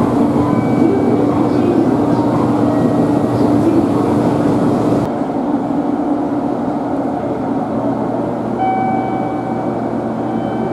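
Steady hum of an electric limited express train standing at a station platform, with the station's general noise around it. The hiss drops abruptly about five seconds in. A few steady tones come in near the end.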